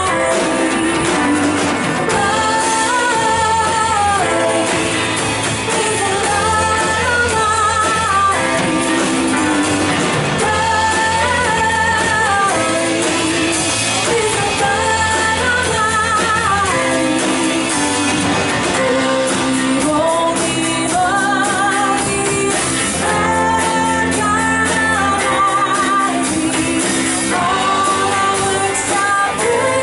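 Church worship band playing a worship song, with voices singing the melody over sustained instrumental accompaniment.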